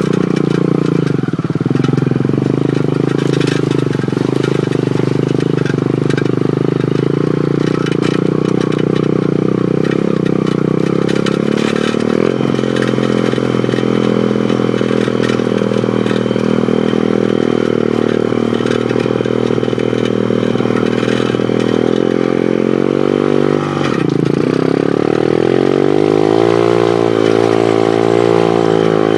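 Pit bike engine running hard while riding, its pitch holding fairly steady with small throttle changes. Near the end the revs drop sharply, then climb and fall again.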